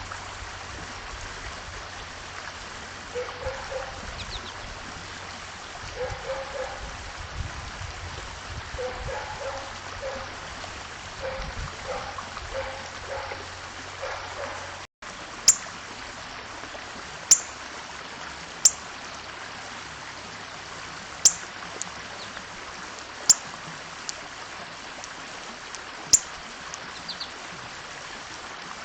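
Wild birds calling at a feeder over a steady rushing like running water. In the first half, short low call notes repeat irregularly; in the second half, sharp high chip notes fall quickly in pitch, one every second or two, with a brief trill near the end.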